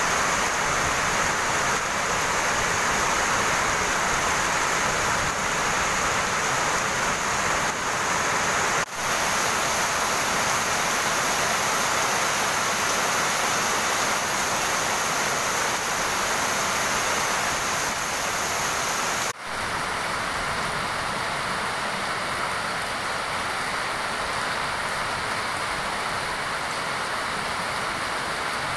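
Heavy rain falling steadily, a dense even hiss. It breaks off for an instant twice, about a third and two-thirds of the way through, where the recording is cut. After the second break it sounds a little duller.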